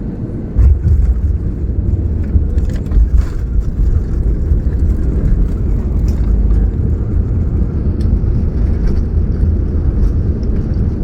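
Airliner cabin noise: about half a second in, a sudden heavy low rumble sets in with a few knocks, the sound of the wheels touching down and the plane rolling fast along the runway.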